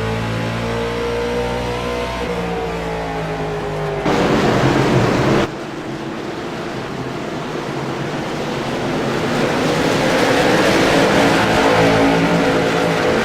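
Stock car racing engines at speed, cut together from several shots. A steady engine note with a slowly shifting pitch gives way abruptly, about four seconds in, to a louder brief rush of noise. The sound then changes suddenly again, and engine sound builds louder toward the end as cars close in.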